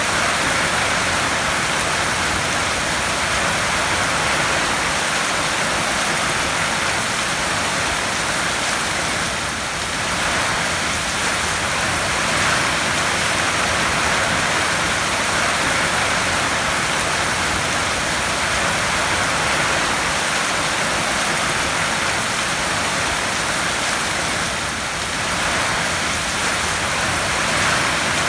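Heavy rain drumming steadily on a tin roof, a dense even patter that eases for a moment twice.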